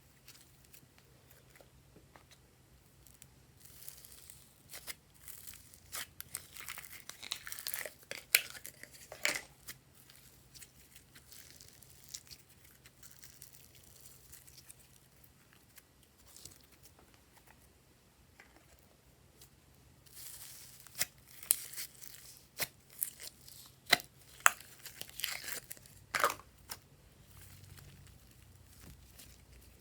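Glossy slime being mixed and squished by hand, giving two stretches of sharp clicks and crackles with quieter handling between them.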